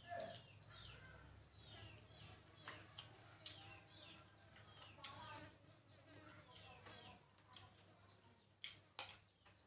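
Small birds chirping repeatedly, short high calls that slide down in pitch, with a few soft clicks and taps among them and a faint low hum.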